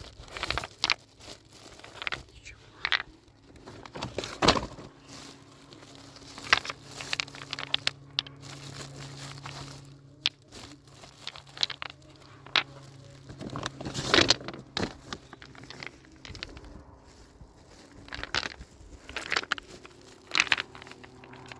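Irregular knocks, clicks and crinkling rustles of building materials being handled and worked, over a faint steady low hum.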